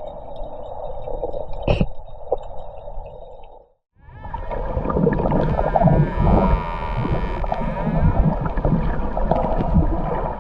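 Underwater sound: bubbling and gurgling water noise with a few clicks. It breaks off for a moment about four seconds in, then comes back louder and fuller.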